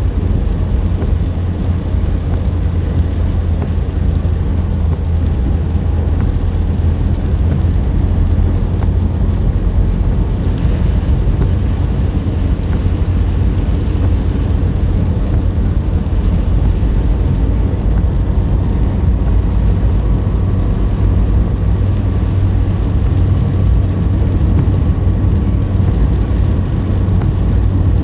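Car being driven: a steady, heavy low rumble of engine and tyre noise that does not change.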